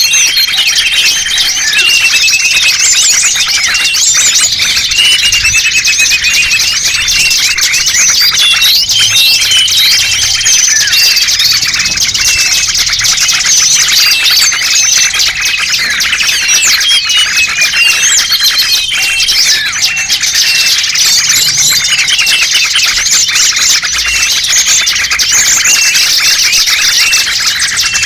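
A bird-lure recording of many small songbirds chirping and twittering all at once. It is a dense, continuous din of quick high-pitched calls that overlap without a break.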